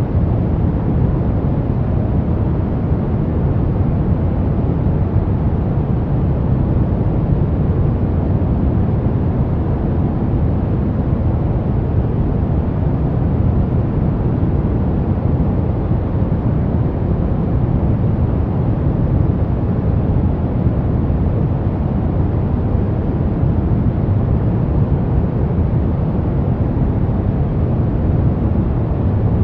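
Steady pink noise: an even, unbroken rushing hiss, weightiest in the low end, with no changes or events.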